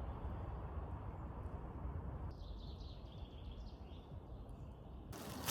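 Forest ambience: a steady low noise, with small birds chirping from about two seconds in to near the end.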